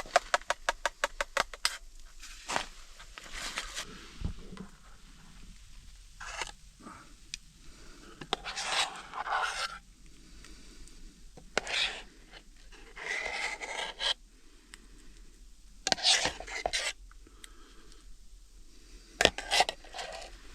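A quick run of rapid clicks, then separate bursts of scraping and rustling, close to the microphone.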